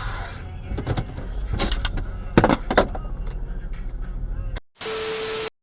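Car driving sounds with a steady low rumble and a few sharp knocks, then an abrupt cut to a short burst of hiss with a single steady tone that stops dead.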